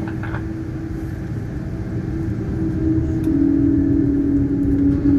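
Airliner jet engines heard from inside the cabin, a steady rumble with a held whine that rises in pitch and grows louder about three seconds in as the engines spool up for takeoff.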